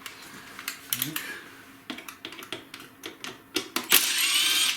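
Plastic clips and connectors of an engine wiring harness clicking and rattling as they are handled, with a loud rasping hiss for under a second near the end.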